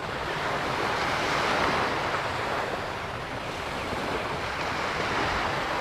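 Small sea waves washing onto the sand beach, a steady surf hiss that swells a little about a second or two in.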